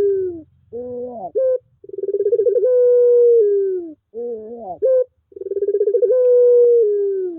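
Puter pelung dove cooing: a long drawn-out coo with a trembling start, held steady and then falling, followed by a few short rising notes. The call repeats about every three and a half seconds. It is played as a lure call to get a silent puter dove calling again.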